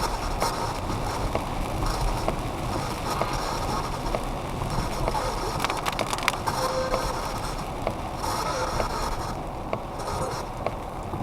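Steady road and rain noise inside a moving car's cabin, with a PSB-11 spirit box sweeping the radio band through its noise gates, giving irregular rapid clicks and short crackles, bunched together about six seconds in.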